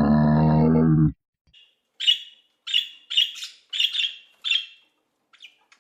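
An animal's low, drawn-out call that ends about a second in, then a bird chirping in short high notes, about six of them, each roughly half a second to a second apart.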